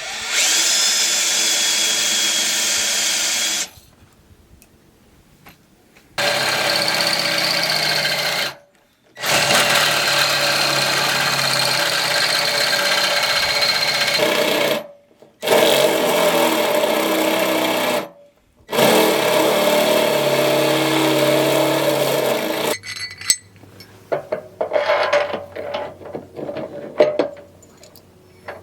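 Handheld power drill running in five bursts of about two to five seconds each, with short pauses between. Near the end, scattered light clicks and rattles.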